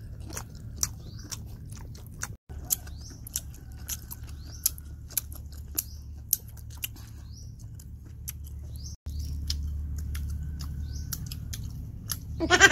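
Close-up chewing of battered fried squid: irregular wet mouth clicks and smacks. Short rising bird chirps sound in the background, and a voice comes in near the end.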